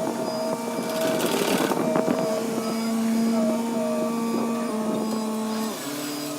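HW60 excavator's engine and hydraulics running with a steady hum and whine; the tone shifts in pitch briefly near the end as the load changes.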